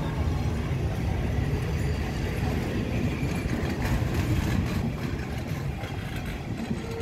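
Passenger coaches of a departing train rolling along the track: a steady low rumble of wheels on rails, with a few clacks a little past the middle. It eases slightly near the end as the last coach passes.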